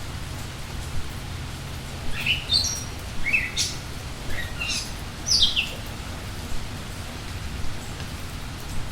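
Songbirds chirping in a quick run of short, falling notes over steady rain. The chirps cluster in the middle and then stop, leaving only the rain.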